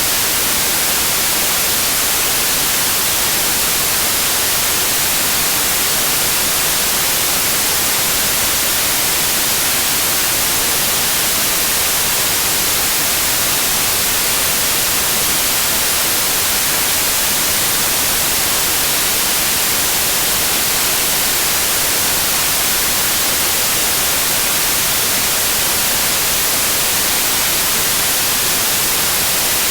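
Steady white noise: an even, unbroken hiss across the whole range, brightest at the top, with no changes.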